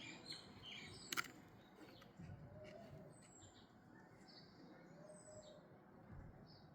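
Faint birds chirping in the background: short high calls and a few thin, falling whistles. A single sharp click about a second in.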